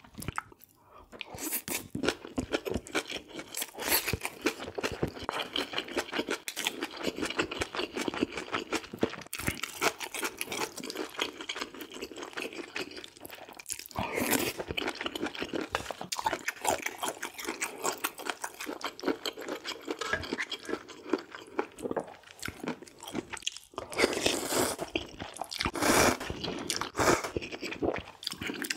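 Close-miked eating: a person chewing and crunching a mouthful of bacon-kimchi rice ball taken by spoon, a continuous run of wet crunches. There are louder stretches about halfway through and again near the end.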